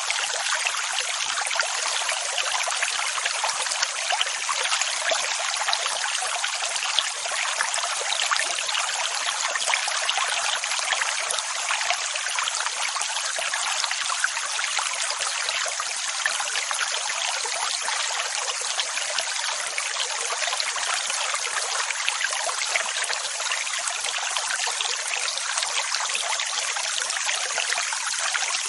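Steady rushing water: an even hiss with a fine crackle, with no separate waves rising and falling.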